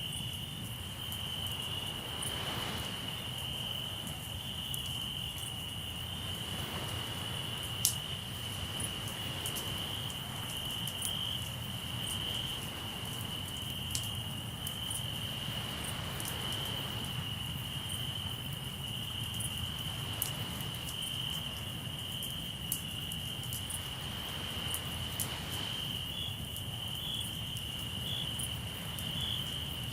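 Crickets trilling in a steady, unbroken high-pitched chorus, with occasional sharp pops and crackles from a campfire. Soft swells of surf rise and fade every several seconds under a low steady rumble.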